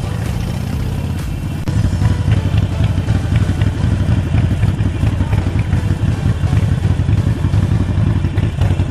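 Harley-Davidson Forty-Eight Sportster's 1200 cc V-twin engine running while riding, a pulsing low rumble that gets louder about two seconds in and holds there.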